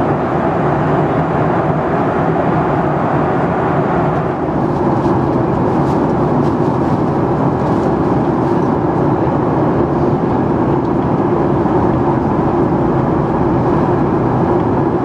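Steady in-flight cabin noise of a Boeing 737-8 MAX: the engines and the rush of air past the fuselage, heard from inside the passenger cabin as a loud, even roar.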